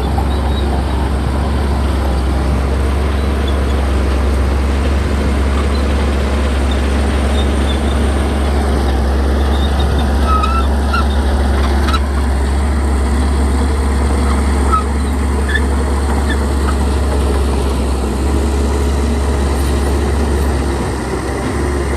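Heavy diesel earth-moving machinery running with a steady low rumble, easing slightly near the end, with a few faint short high squeaks over it.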